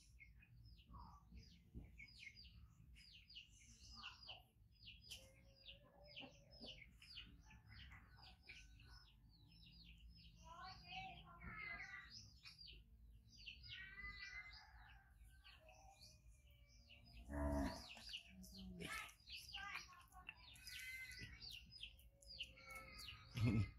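Faint chirping of small birds: many short, high chirps repeating quickly, with a few longer pitched calls. Two louder low thumps come about 17 seconds in and at the very end.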